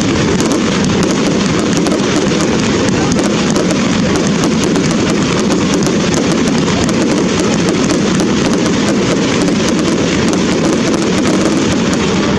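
Fireworks display: a loud, continuous barrage of bangs and rapid crackling, with no let-up.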